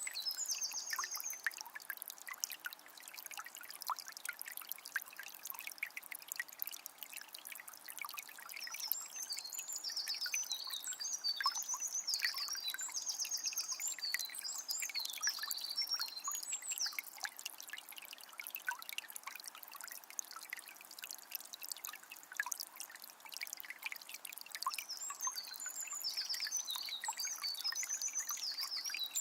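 Small spring trickling and splashing steadily. Over it, a songbird sings bursts of quick, high trilled phrases at the start, through the middle, and again near the end.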